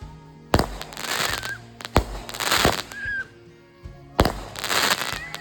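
Consumer fireworks going off: about four or five sharp bangs a second or so apart, each followed by a crackling hiss.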